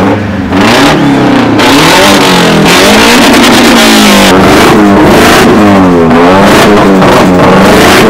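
Car engine revved hard over and over, its pitch rising and falling in repeated sweeps, very loud.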